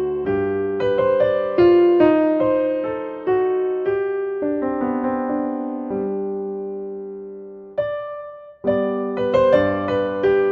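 Background piano music: a gentle melody of single notes that strike and fade, with a brief break about eight seconds in.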